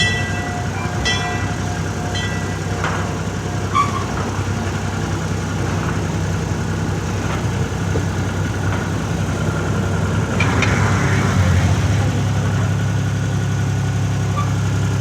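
Calico Mine Ride train running with a steady low mechanical hum. A few light clicks come early, and a short hissing swell about ten seconds in, after which the hum is louder.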